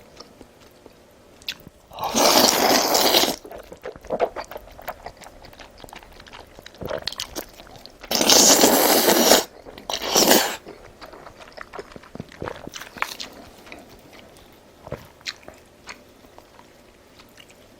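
Close-miked eating: a person chewing and biting crunchy food, with small clicks and smacks throughout and three loud crunching bursts, about two seconds in, around eight to nine seconds in, and briefly just after ten seconds.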